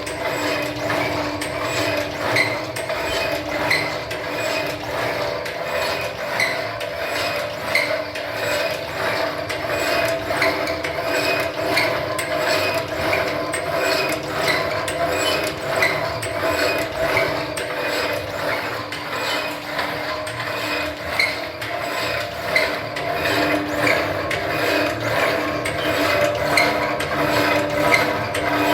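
Semi-automatic screen-printing machine running, with a steady motor hum and a regular mechanical clicking as its mechanism cycles.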